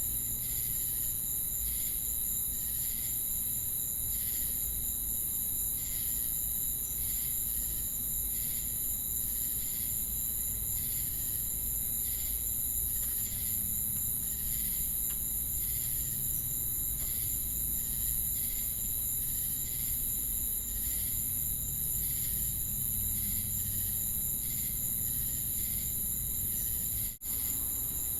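Crickets and cicadas calling together: a continuous high-pitched insect drone, with a pulsing chirp repeating roughly once a second. The sound cuts out for an instant near the end.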